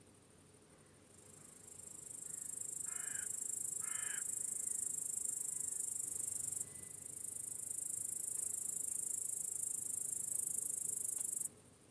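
Crickets trilling, a very high-pitched continuous chirring that swells in over a couple of seconds, breaks off briefly midway and then stops suddenly near the end. Two short bird calls sound about three and four seconds in.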